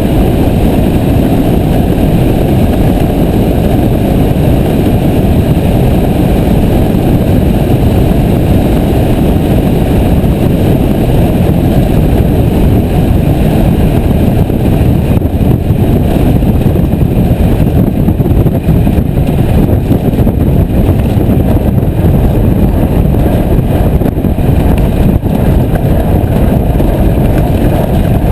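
Piper J3 Cub's engine and propeller running steadily in flight, a loud, even drone with no change in power.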